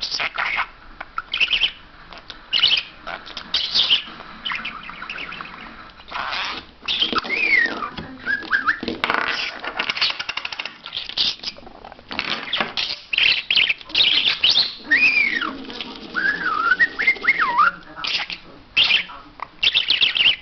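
Talking pet bird chattering, with rapid clicks and squawks and a few sliding, wavering whistles.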